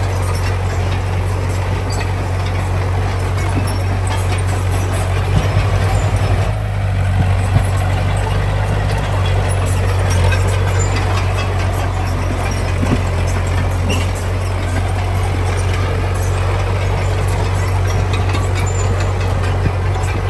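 Heavy diesel construction machinery running steadily under load, with a constant low engine drone and a few faint knocks.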